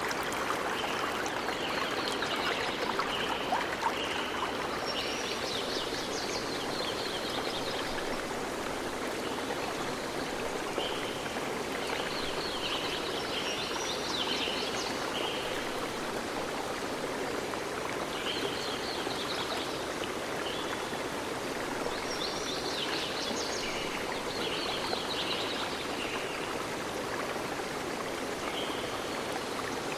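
A stream running steadily, with birds chirping in repeated bouts of short high notes over it.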